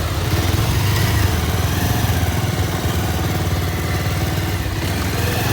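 Motorcycle engine running steadily while the bike is ridden, with a constant rush of noise over it.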